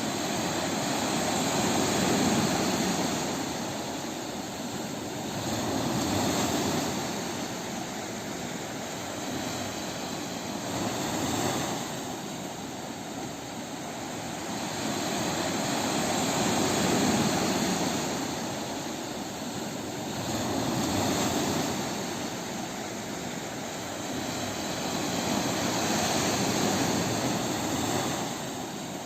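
Ocean surf washing onto a beach, a steady roar of breaking waves that swells and recedes about every four to five seconds.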